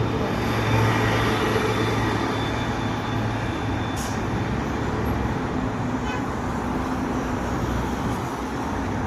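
Steady traffic noise from a busy multi-lane road: a continuous stream of passing vehicles, with a low engine hum underneath.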